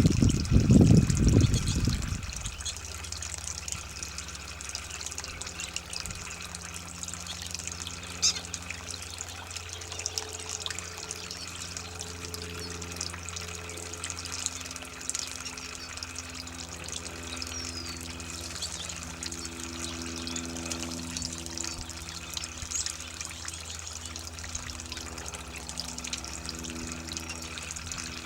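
Running water trickling steadily onto the ground, with short high bird chirps scattered throughout. A loud low rumble fills the first two seconds.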